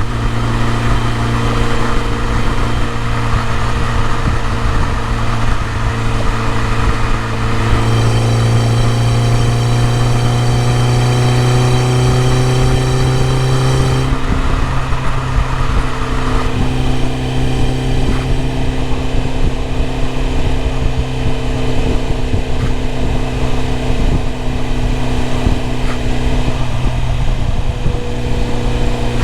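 BMW E30 M3's four-cylinder engine running steadily. Its pitch climbs gently for several seconds in the middle, then drops back suddenly and holds steady again.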